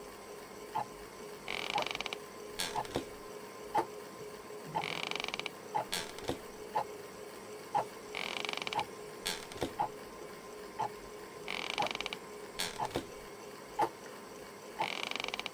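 A man snoring in his chair, one short snore about every three seconds, over a clock ticking about once a second and a steady hum.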